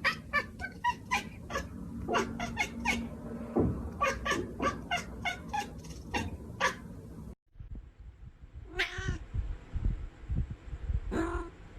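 Domestic cat meowing: a quick series of short, repeated calls about three a second, then after a cut two separate, longer meows.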